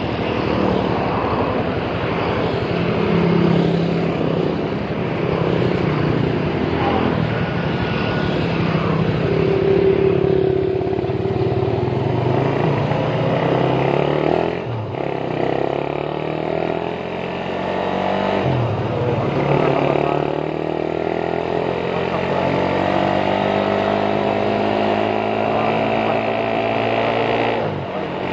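Suzuki Raider 150's engine heard from the rider's seat, accelerating through the gears. The pitch climbs steadily and drops sharply at each shift, about halfway through, a few seconds later and again near the end.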